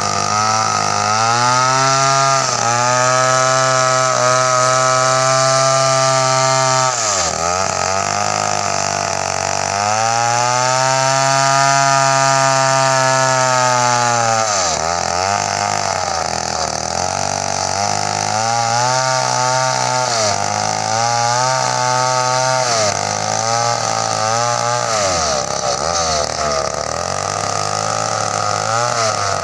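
Two-stroke chainsaw revving and cutting coconut wood: two long runs at high revs of several seconds each, then a series of shorter rev-ups and drops.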